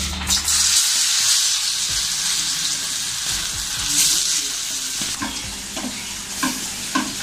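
Marinated minced chicken sizzling loudly as it drops into hot oil in an aluminium kadai, being spooned in and stirred. A slotted metal spoon gives a few sharp taps against the pan and bowl near the end.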